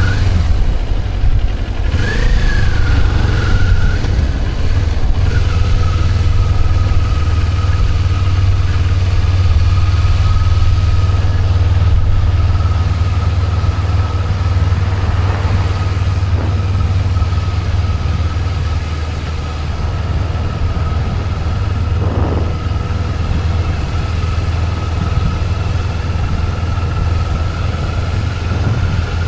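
Motorcycle riding at a steady cruising speed, its engine running under a deep, steady wind rumble on the microphone, with a thin steady whine.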